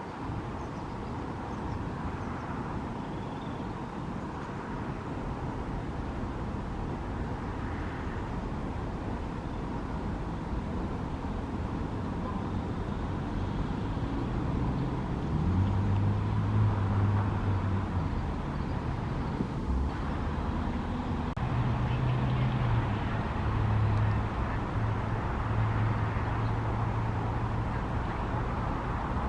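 Steady road traffic noise. About halfway through, a vehicle engine's low hum joins in and runs on.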